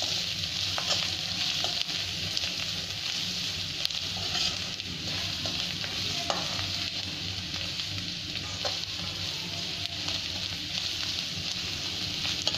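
Onions, green chillies and spice masala sizzling in hot oil in a kadai, stirred with a metal spoon that scrapes and clinks against the pan a few times.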